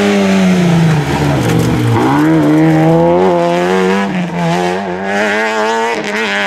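Rally car engine at high revs. Its pitch falls for about two seconds as the car slows for a bend, then climbs steeply as it accelerates hard out of the bend, and it stays high after that with brief dips at gear changes.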